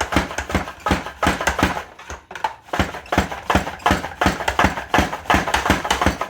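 Cucumber pushed back and forth over a Pampered Chef Rapid Prep mandoline set to cut long skinny strips: a steady run of crisp slicing strokes, about three a second.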